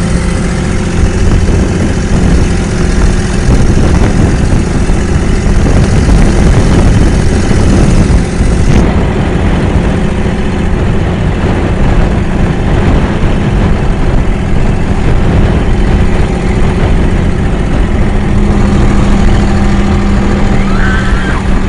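Boat engine running steadily, loud and close, with a constant low rumble and hum.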